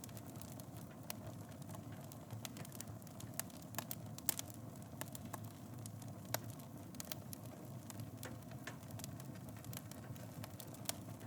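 Wood fire burning in a fireplace: a steady low rumble of flames with irregular crackles and pops, a few sharper pops around four and six seconds in.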